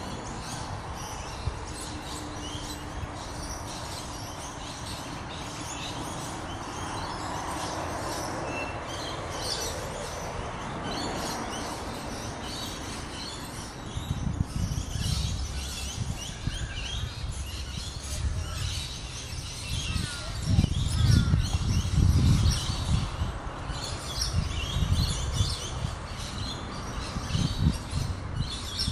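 Small birds chirping and twittering in short, scattered high calls. About halfway through, irregular bursts of low rumble set in and become the loudest sound.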